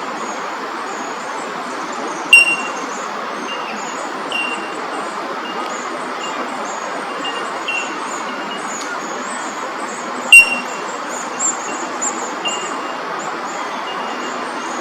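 Fairy-wrens chirping and twittering in short, high-pitched notes over a steady background rumble. Two loud, sharp ringing notes stand out, about two seconds in and about ten seconds in.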